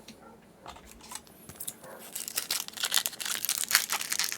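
Foil booster-pack wrapper crinkling and being torn open, with dense crackling that starts about halfway through after a couple of light handling clicks.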